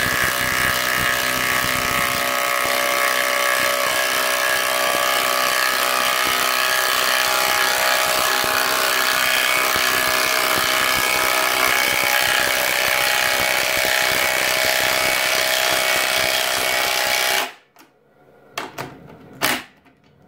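Makita subcompact impact driver hammering steadily as it drives a lag bolt, stopping abruptly near the end. A couple of short knocks follow.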